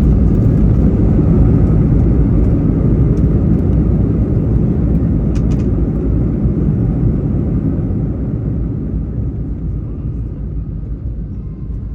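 Cabin noise of an Airbus A320 with CFM56 engines on its landing roll: a loud, steady low rumble that gradually dies away as the aircraft slows, with a couple of brief clicks about five seconds in.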